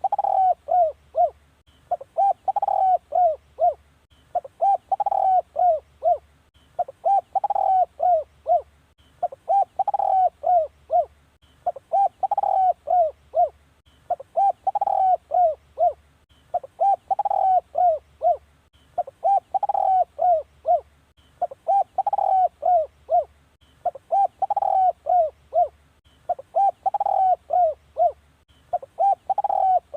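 Spotted dove cooing: the same phrase of several quick coos, repeated about every two and a half seconds, with a low hum under each phrase. It is a decoy call of the kind played to lure wild spotted doves.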